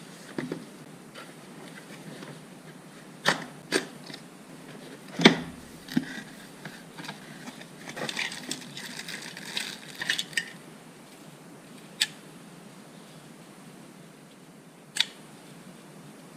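Handling noises from a handheld vacuum's plastic dustbin and filter being worked: scattered sharp clicks and knocks, the loudest about five seconds in, with a stretch of rustling and scraping in the middle. The vacuum's motor is not running.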